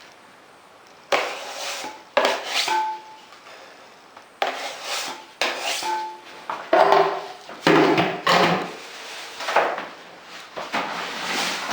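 Drywall knife scooping joint compound out of a pail and scraping it onto a hawk: a series of sudden scrapes and knocks, some with a brief metallic ring.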